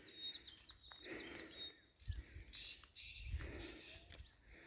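A songbird singing a quick run of short, falling chirps in the first couple of seconds, with a few fainter high notes after. Soft low thumps and rustle sound underneath.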